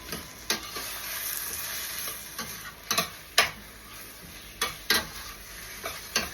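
Onion, bell pepper and tomato sizzling in olive oil in a pot as cut okra is added and stirred in, with the spoon knocking against the pot about six times. The hiss swells for a second or so early on.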